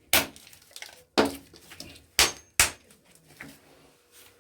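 Four sharp metal knocks and clinks, hand tools striking and handling a small electric motor's casing on a hard work surface; the third ends in a brief metallic ring.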